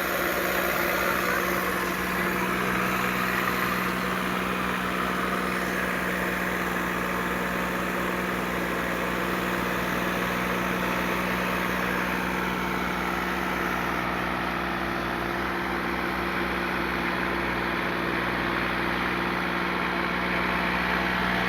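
Tractor diesel engine running at a steady, even speed, a constant mechanical drone.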